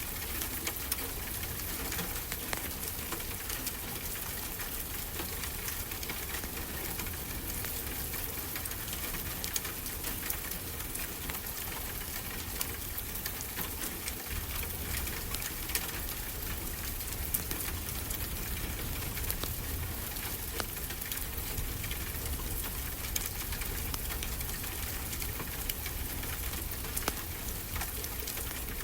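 Wood fire crackling with scattered sharp pops over a steady wash of ocean waves.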